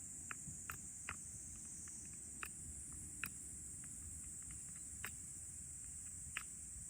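Wood crackling in a campfire, with about seven sharp, irregularly spaced pops, over a steady high-pitched drone of insects.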